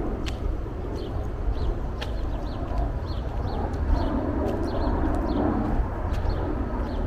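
Small birds chirping over and over in short high calls, with a few sharp clicks and a steady low rumble of walking on the path underneath.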